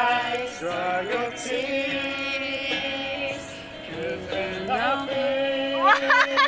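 A man singing karaoke over a backing track, holding long steady notes with sliding glides between them.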